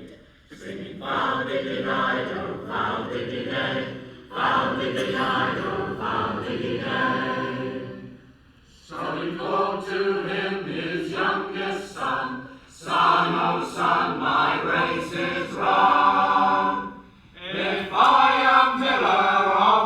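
A folk choir singing a song in phrases of about four seconds, each separated by a brief pause for breath.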